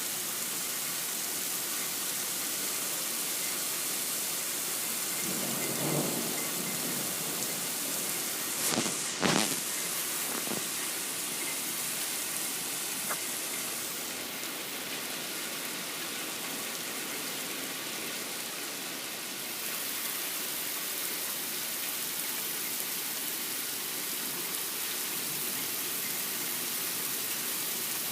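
Thunderstorm: steady heavy rain hiss throughout, with a thunder rumble about six seconds in and two sharp thunder cracks around nine seconds in, the loudest moments.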